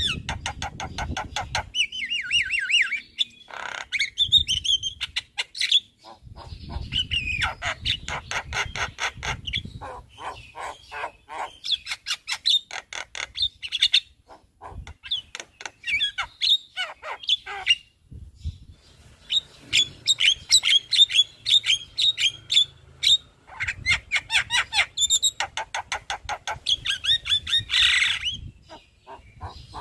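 Javan myna (jalak kebo) singing a long, varied song of rapid chattering and whistled notes with mimicked phrases, in phrases with short breaks.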